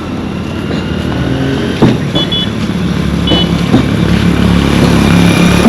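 A motor vehicle's engine running and drawing nearer, growing steadily louder, with a few short high beeps about two and three seconds in.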